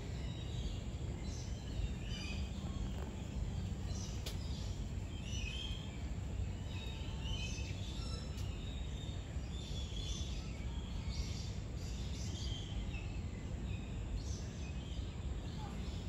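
Scattered chirps and short calls from several birds over a steady low rumble of outdoor noise.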